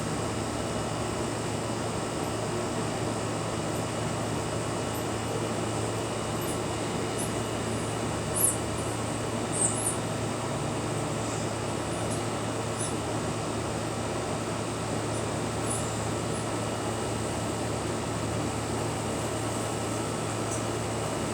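Steady rushing background noise with a constant low hum, and a few short, faint high chirps about eight and ten seconds in.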